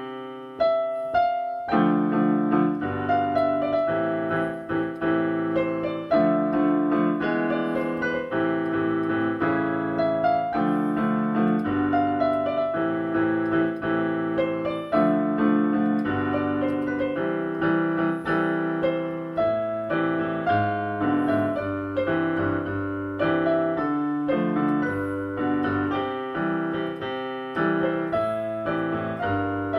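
Solo piano playing a pop song arrangement: chords with a melody over them, in a steady rhythm, with a short pause about a second in.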